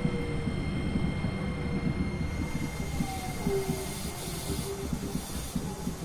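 Tokyo Monorail 2000 series running, heard from directly above its motors: a low rolling rumble with the whine of its Hitachi IGBT VVVF inverter and traction motors. The whine slowly falls in pitch, and the overall sound gradually gets quieter.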